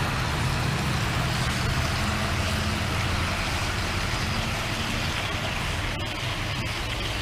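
An engine running steadily, a low even hum with a pitch that wavers slightly, and a few faint clicks near the end.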